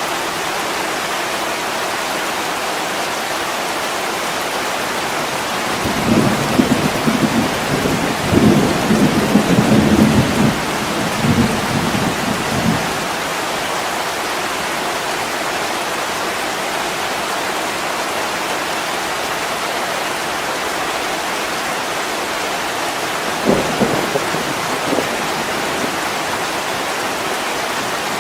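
Steady heavy rain pattering on a window. About six seconds in, a rolling rumble of thunder swells and lasts several seconds, and a shorter rumble comes near the end.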